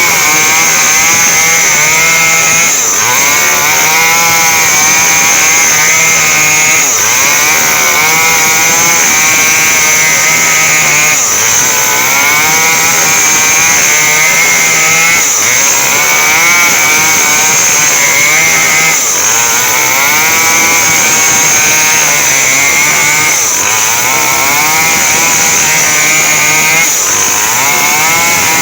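Small two-stroke chainsaw running at high revs while cutting through coconut palm wood, its pitch wavering under load and dipping briefly about every four seconds.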